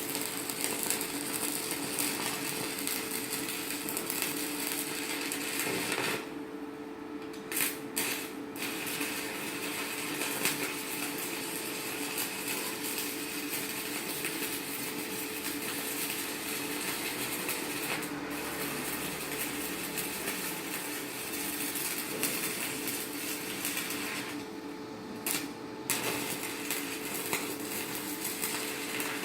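Stick-welding arc from a 4.0 mm electrode on a Chinshui 160ARC inverter welder, crackling and sizzling steadily. The arc drops out briefly twice, about six seconds in and again a few seconds before the end, and is struck again with a few sharp pops. A steady low hum runs underneath.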